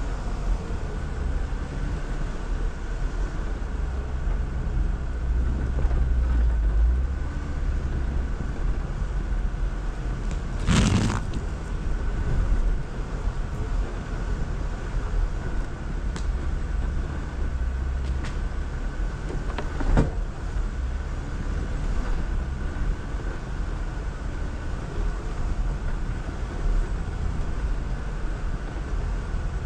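Jeep Wrangler driving slowly off-road, its engine giving a steady low rumble. A loud knock about eleven seconds in and a sharp click around twenty seconds stand out over the engine.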